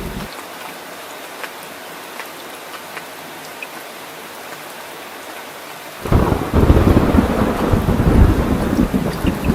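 Steady rain with scattered drips, then about six seconds in a loud crack of thunder that rolls on as a low rumble over the rain.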